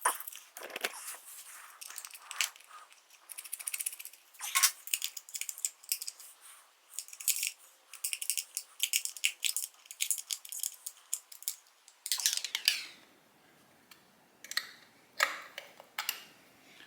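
Light metallic clinking and rattling of hand tools and small metal parts, a dense run of quick clicks through the middle with a brief scraping rush near the end, then a few single clicks.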